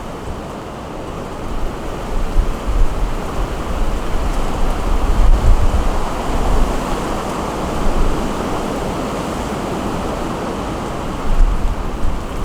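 Steady rain falling, with gusts of wind hitting the microphone as deep rumbles now and then.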